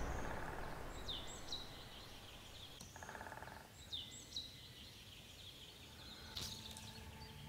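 Faint outdoor birdsong: a few quick, high, downward-sliding chirps, with a short buzzy rattle about three seconds in, while a louder sound fades away at the start.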